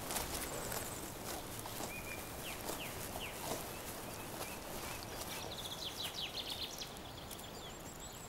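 Brown bear moving and feeding in bilberry undergrowth, with soft rustling and scattered small clicks, while forest songbirds chirp briefly several times and a thin high trill sounds near the start and again near the end.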